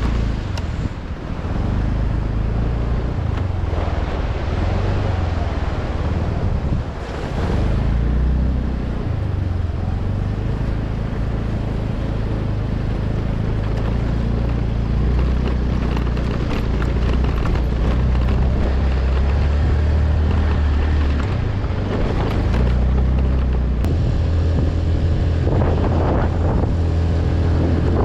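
Vehicle engine running steadily while driving, with wind buffeting the microphone; the engine note shifts in steps and a few rising notes come through near the end.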